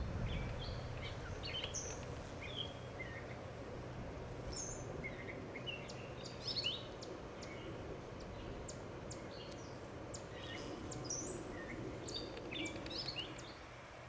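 Several birds chirping and singing in short, quick calls and trills throughout, over a steady low background hum.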